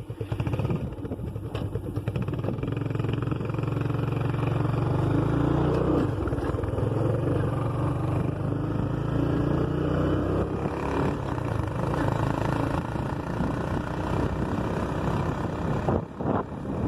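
A motor vehicle's engine running steadily on the move, with a steady rushing noise over it.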